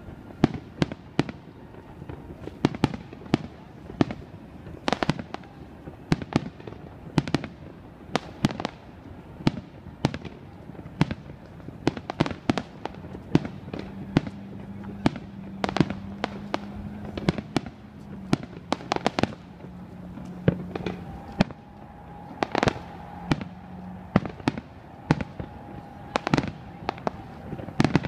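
Aerial fireworks going off, one sharp bang after another with no letup, often two or three a second. A steady low hum sounds underneath through the middle stretch, joined by a higher steady tone near the end.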